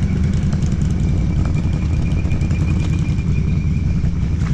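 ATV engine idling steadily, a dense low pulsing note, with a thin steady high whine over it.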